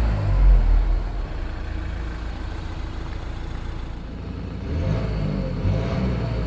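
2021 Renault Trafic's 2.0 L twin-turbo diesel inline four, blipped in neutral: a rev falls back to idle in the first second, idles steadily, then revs up again from about two-thirds of the way in.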